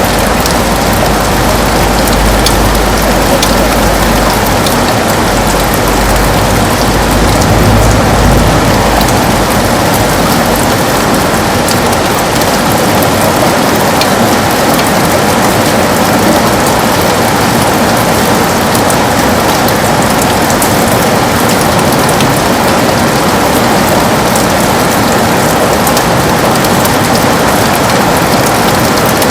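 Heavy rain pattering on a window in a steady, dense wash. A low rumble sits under it for the first ten seconds or so, then fades away.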